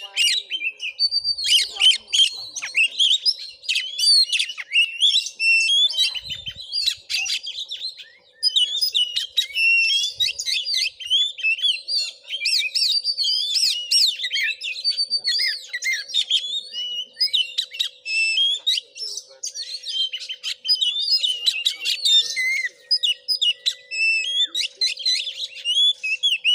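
Oriental magpie-robin (kacer) singing in a rapid, nearly unbroken stream of varied whistles and chattering phrases, pausing briefly about eight seconds in. A faint steady hum runs underneath.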